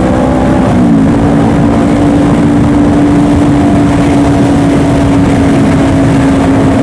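Honda CBR500R's parallel-twin engine running at a steady cruise under wind rush on the microphone; about a second in, the engine note rises slightly and then holds steady.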